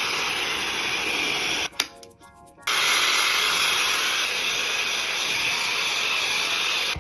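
Dyson Supersonic hair dryer blowing steadily with a high, airy rush. It cuts out for about a second just under two seconds in, then comes back on.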